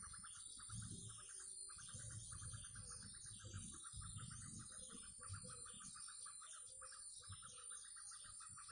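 Small birds chirping over a continuous rapid trill of about ten pulses a second, with low rumbling on the microphone.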